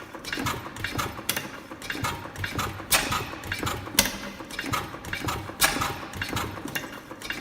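Crossley KK hot-tube oil engine of about 1914 running: a quick, steady clatter of clicks several times a second, broken by sharper, louder beats at uneven intervals of a second or so.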